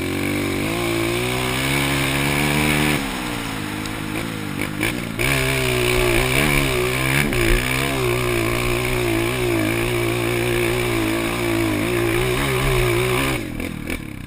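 Honda CRF230 dirt bike's four-stroke single-cylinder engine running under throttle, its pitch rising and falling as the rider works the throttle. The note drops back about three seconds in and picks up strongly again about two seconds later.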